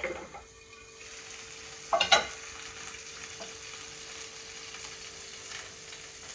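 Food sizzling as it fries in hot oil in a pan on the stove. A loud knock and scrape of a utensil against the pan comes about two seconds in.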